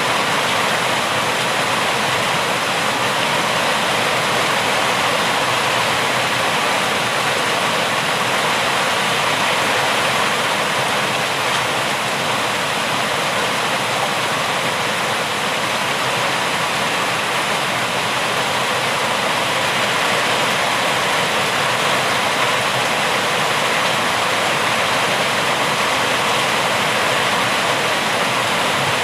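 Steady heavy rain: a dense, even hiss with no separate drops, thunder or other events standing out.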